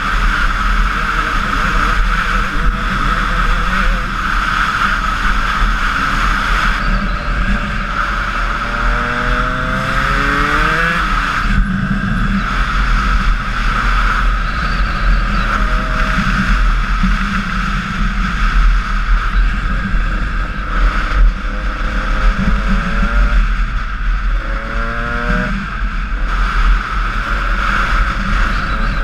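Honda CR125 two-stroke dirt bike engine running under way. Its pitch climbs as it revs out and drops back, twice, once around the middle and again near the end.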